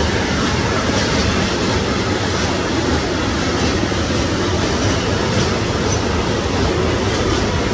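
Intermodal freight train of container and tank-container wagons, hauled by a Siemens Vectron electric locomotive, passing close by: a loud, steady rolling rumble with repeated wheel clatter.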